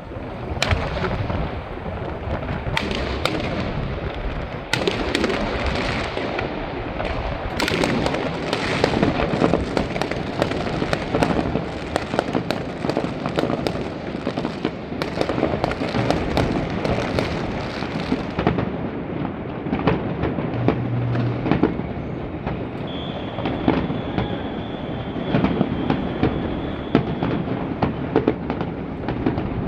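Aerial fireworks barrage: a dense, continuous run of bangs and crackling bursts over a rolling rumble. Past the middle the sharp crackle thins, leaving duller booms, and a thin high steady tone sounds for a few seconds near the end.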